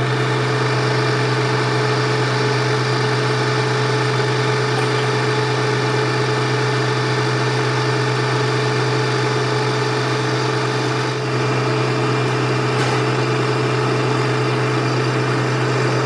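Metal lathe running with a steady machine hum.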